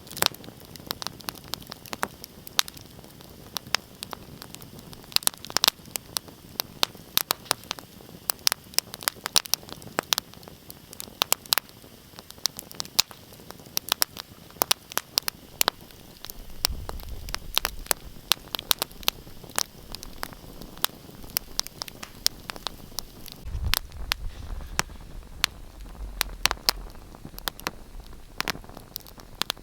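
Wood fire burning in a fireplace, crackling and popping with many sharp, irregular snaps over a soft hiss. A low rumble swells twice, in the middle and again in the last few seconds.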